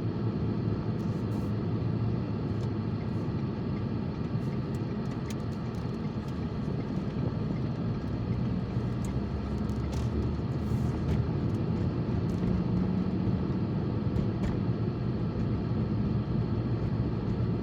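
A car driving steadily: a continuous low rumble of engine and road noise with a steady hum.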